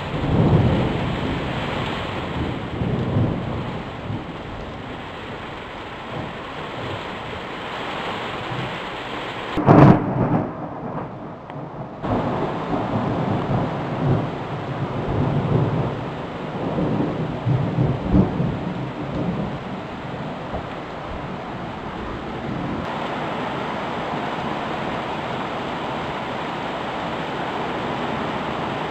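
Thunder rolling and rumbling over steady rain, with one sharp, loud thunderclap about ten seconds in followed by more rumbles. Near the end only the even hiss of the rain remains.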